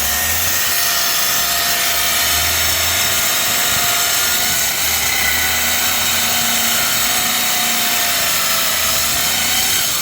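Plasma cutter cutting through a steel truck frame: a loud, steady hiss of the air arc with a faint high whine over it.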